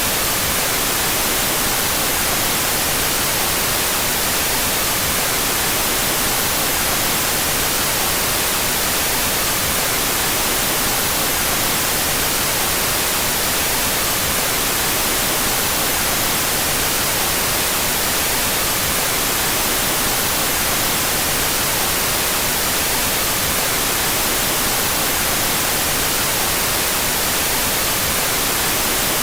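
Steady, unbroken white noise, an even hiss that is strongest in the treble, with the left and right channels played out of phase.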